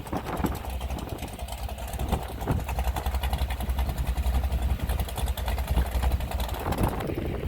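Inboard engine of a V-drive power boat idling steadily: a low, even rumble with no revving.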